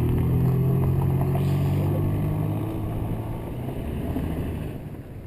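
Car engine running with a steady low hum, fading away over the second half.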